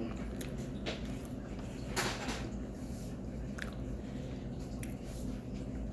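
A person chewing a mouthful of baked cornstarch, with soft mouth sounds, scattered small clicks and one louder noisy smack about two seconds in. The cornstarch has come out as soft powder rather than crunchy chunks.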